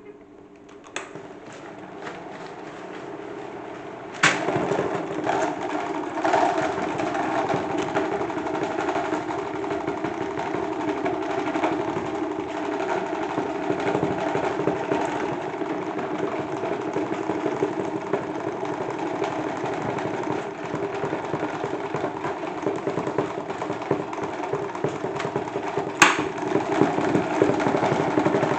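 Salad spinner rigged as a toy washing machine, spinning with a broken fan blade in its basket: a quieter rising whir, then about four seconds in a sharp click and a loud steady spinning run, with a sharp knock near the end.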